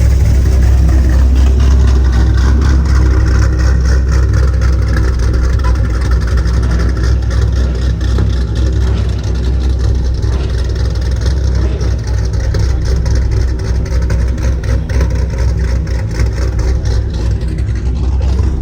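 Car engines running at a loud, steady level, with a heavy low rumble and no clear revving.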